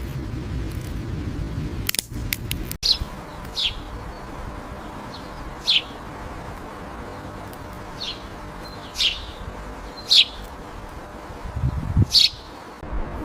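A bird chirping: short, high calls that slide downward, repeated every second or two, over a low rumble.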